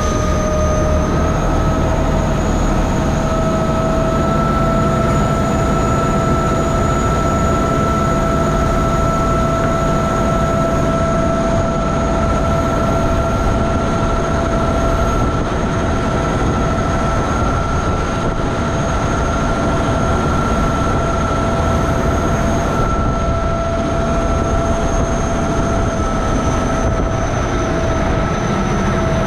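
River boat's engine running steadily: a loud low rumble with a steady whine over it, which rises slightly in pitch about a second in and then holds.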